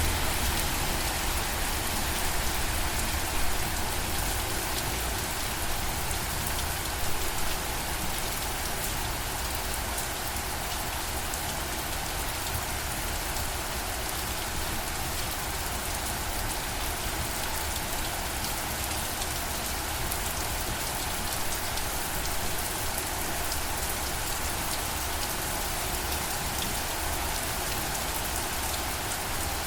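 Steady rain falling on a surface, an even wash of drops, with a few slightly louder spatters in the first several seconds.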